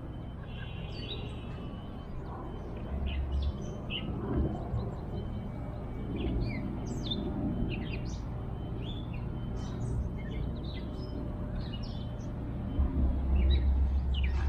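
Birds chirping: many short chirps and calls scattered throughout, over a steady low rumble that swells briefly about three seconds in and again near the end.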